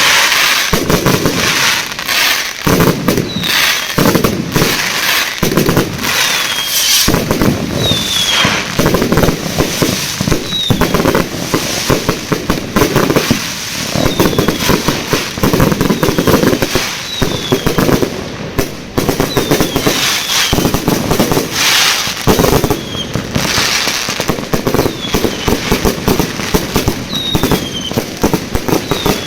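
A fireworks display going off: a continuous run of bangs and crackling, with short falling whistles recurring every second or two.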